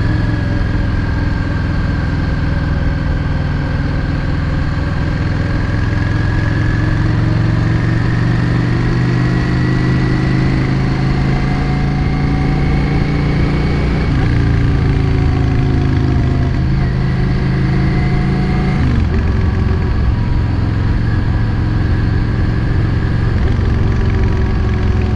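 Yamaha XVS 650 Drag Star's air-cooled V-twin engine running steadily while the motorcycle rides along. Its pitch steps down about halfway through and again a few seconds later.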